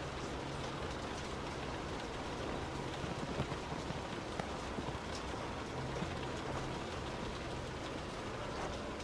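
Heavy rain on a moving car: a steady hiss with scattered sharp ticks of drops striking, over a low hum that fades in and out.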